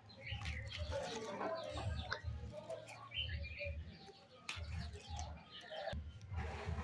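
Birds chirping, with a few cooing calls, mixed with the soft rustle and clicks of hands handling plastic-wrapped candy.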